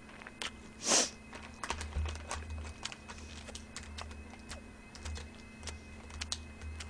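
Close-miked chewing of a fast-food burger: many small wet mouth clicks and smacks, with a short louder hiss of breath or rustle about a second in. A faint steady electrical hum runs underneath.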